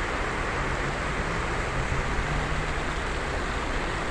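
Heavy rain pouring steadily, a dense even hiss of water falling and running, with a faint low steady hum for a couple of seconds in the middle.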